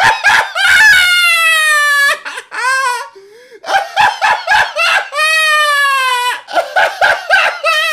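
A man laughing hysterically in a high, shrieking voice: quick cackles broken twice by a long drawn-out squeal that slides down in pitch.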